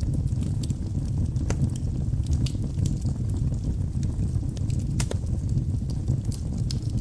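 Wood fire burning in a fireplace: a steady low rumble with scattered small crackles and pops, two sharper pops about a second and a half in and again about five seconds in.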